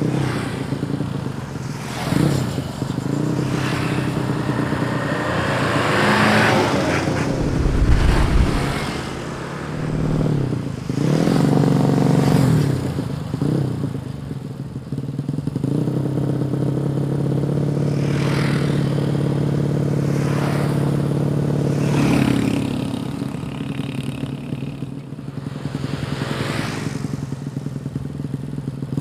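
Tuned 130cc drag bike engine revving again and again, its pitch climbing and dropping in blips, with stretches held at steady revs in between.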